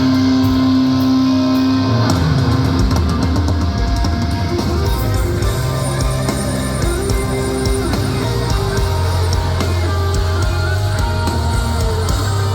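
Heavy metal band playing live: distorted electric guitars holding sustained notes, with the drum kit coming in fully about two seconds in and the band driving on together.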